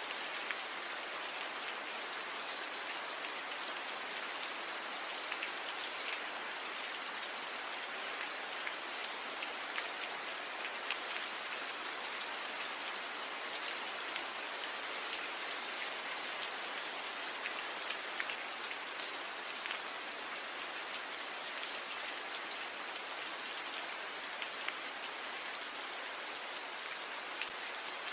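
Steady rain falling on tree leaves: an even hiss with many small drop ticks scattered through it.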